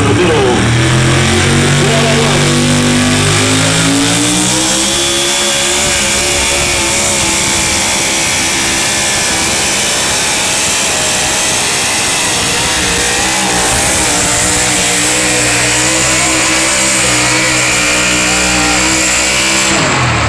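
A pulling truck's engine revving up over the first few seconds, then running hard at high revs under load through a pull, its pitch wavering slightly as it goes.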